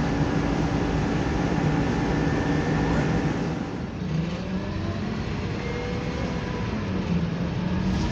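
Scania Enviro 300 bus engine and drivetrain running while the bus is driven, heard from on board. The engine note changes and dips slightly about four seconds in.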